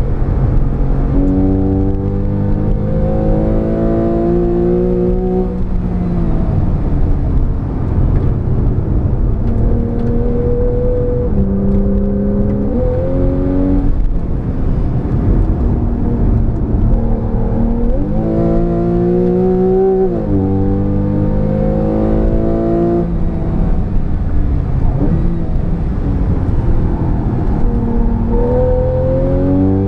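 Porsche 991 Carrera S's flat-six engine under hard acceleration on track, climbing in pitch again and again and falling back sharply at the gear changes and under braking, with tyre and road rumble underneath.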